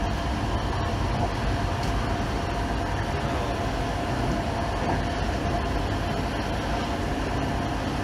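A 1980s passenger train running steadily along the track, heard from inside: an even rumble of wheels on rail with a steady high tone over it.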